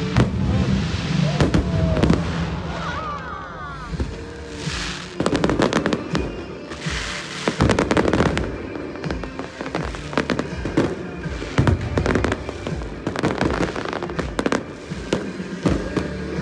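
Aerial fireworks bursting and crackling again and again at an irregular pace, with music playing underneath.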